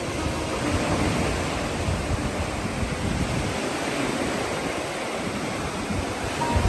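Steady rush of sea waves and wind along the shore.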